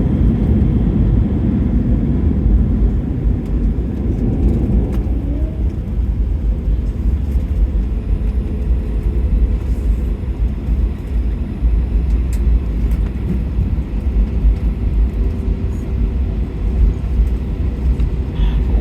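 Airbus A320 cabin noise during the landing rollout: a loud, low rumble of engines and wheels on the runway that eases about five seconds in as the airliner slows, then continues as a steady lower rumble.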